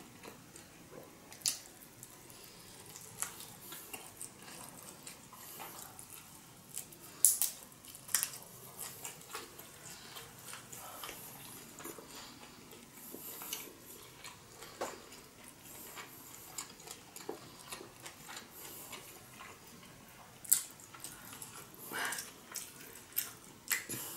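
Close-up eating sounds of a person chewing shrimp nigiri sushi: soft wet chewing with scattered lip smacks and clicks, a few of them sharper.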